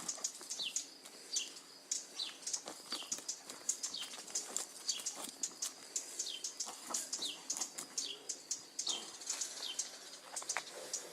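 Small birds chirping: many short, high chirps that drop in pitch, repeating every half second or so, mixed with sharp high ticks.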